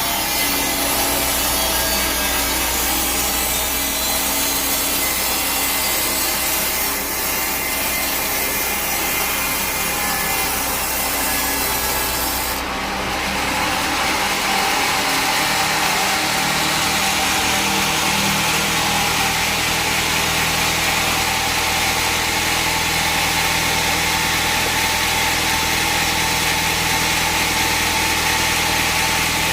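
Sawmill bandsaw blade cutting steadily through a teak log, a continuous dense sawing noise over a low machine hum. The tone of the hum changes about halfway through.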